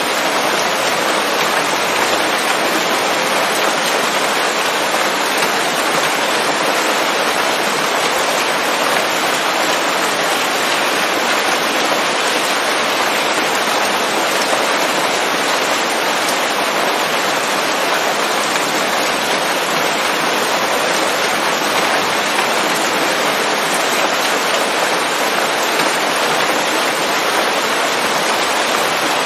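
Steady rain falling on leafy forest foliage, an even, unbroken patter with no thunder.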